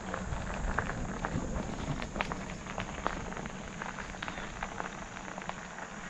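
Bicycle tyres rolling along a trail: a steady rustling hiss dotted with many small, irregular clicks and pops.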